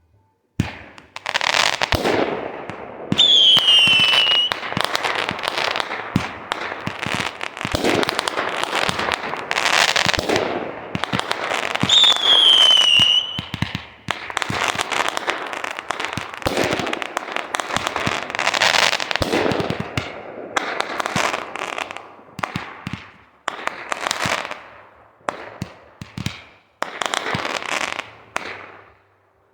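Fireworks going off: dense crackling and bangs, with two whistles falling in pitch, one about three seconds in and another about twelve seconds in.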